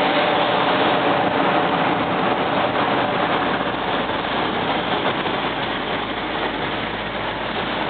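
Steady road noise inside a moving car: a continuous rush of tyre and engine sound, easing slightly toward the end.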